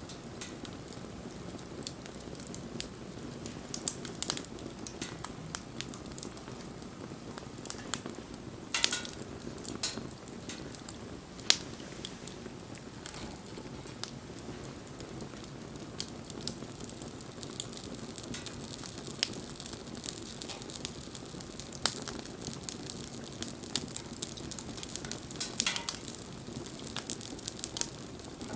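Wood bonfire burning: a steady low rush of flame with irregular crackles and pops of burning wood, and a few louder snaps.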